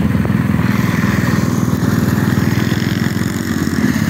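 Small single-cylinder mini bike engine running steadily at a near-constant speed, its firing pulses close and even, easing slightly near the end.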